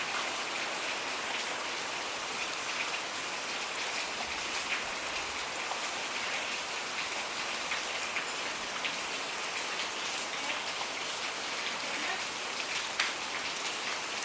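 Steady rain falling, with many separate drops ticking close by; one sharper drop hits about thirteen seconds in.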